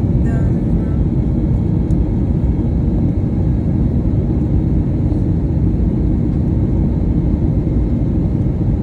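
Airbus A321neo landing: a loud, steady low rumble of engines and rushing air.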